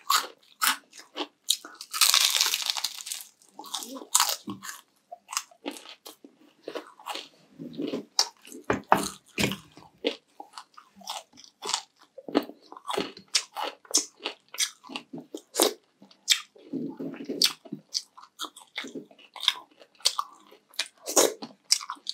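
Close-up crunching and chewing of crispy deep-fried pork feet: a dense run of sharp crackling bites, with a longer crackling bite about two seconds in.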